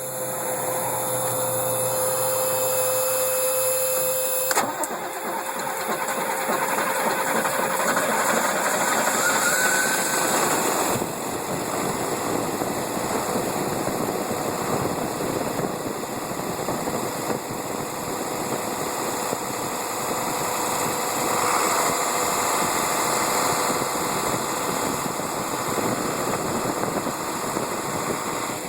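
1988 International 4WD dump truck engine starting up and then running steadily, with a sudden change in its sound about four and a half seconds in.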